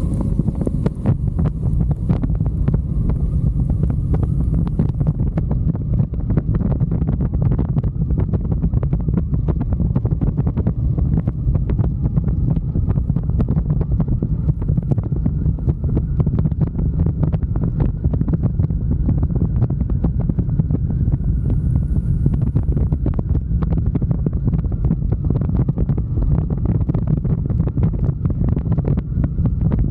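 Wind buffeting the microphone of a moving motorcycle: a loud, steady low rumble of rushing air and road noise that flutters without letup.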